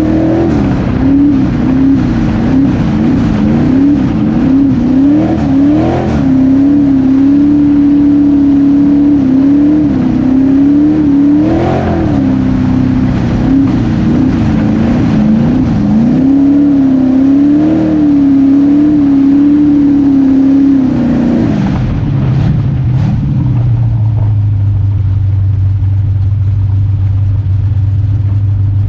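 V8 pure stock dirt-track race car engine running at speed, its revs dipping and climbing again and again. About 22 seconds in the revs fall away to a low, steady rumble.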